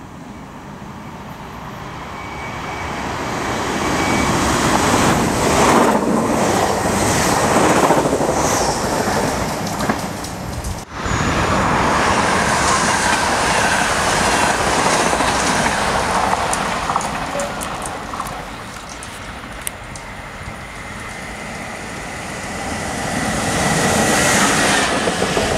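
Trains passing through a station. First a train's running noise swells to a loud peak. After a break, a yellow SNCF Infra diesel locomotive's engine and wheels grow louder as it approaches and passes close near the end, with a thin high whine over the rumble.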